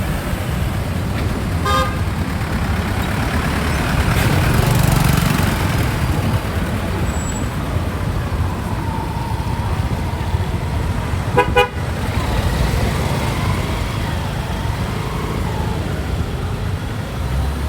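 Street traffic with engines running, and a vehicle horn giving short toots, once about two seconds in and again about eleven seconds in.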